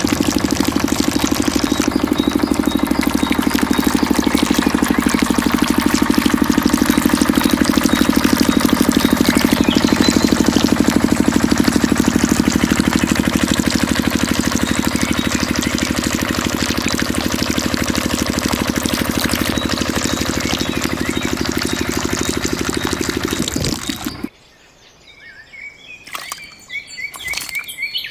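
Mini diesel engine driving a water pump, running steadily with a rapid, even firing beat, then shutting off abruptly near the end. Birds chirp in the quiet that follows.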